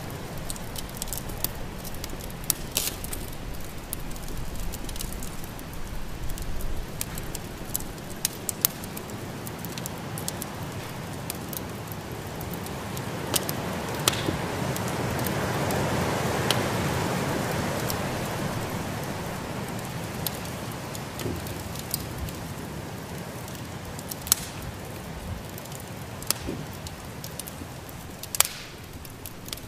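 Wood fire crackling in a fireplace, with scattered sharp pops over a steady hiss of snowstorm wind. The wind swells into a gust about halfway through and dies back down.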